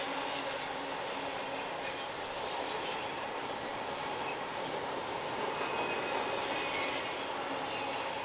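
Train rolling through a curve: steady rumble of wheels on rail, with short high-pitched squeals from the wheels grinding against the curved rail, most clearly a little past the middle.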